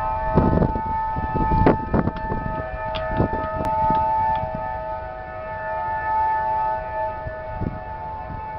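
Canadian Pacific freight train making a steady chord of several high tones that holds without a break, with irregular clanks and bangs from the cars.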